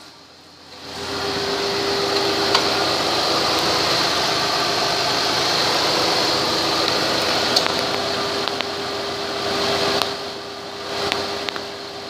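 Ford Escape engine running in drive: a steady mechanical running sound with a constant whine, quiet for the first second, then holding steady and easing off near the end, with a few light clicks.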